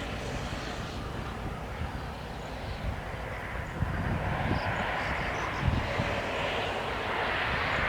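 Steady rumbling outdoor noise, with a few faint, short, high chirps from a small bird.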